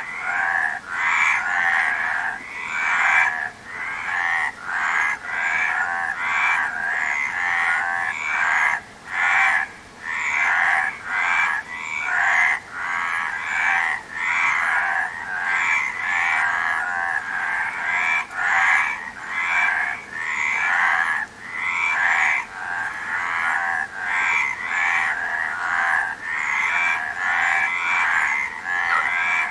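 A chorus of frogs croaking, overlapping calls following one another about twice a second without a pause.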